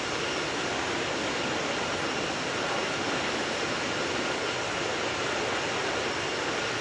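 Airliner cabin noise on final approach: engines and rushing air as a steady, even roar, with a faint steady whine in it.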